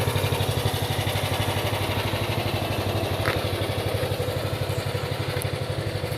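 The 13.5 hp Briggs & Stratton engine of a mini compact tracked loader running steadily, with an even, pulsing exhaust beat.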